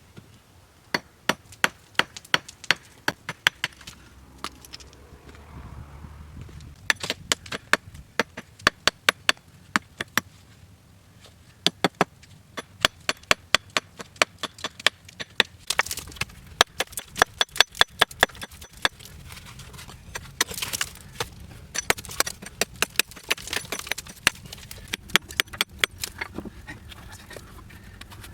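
Repeated sharp chopping strikes on wood, often several a second, coming in bursts with short pauses between them.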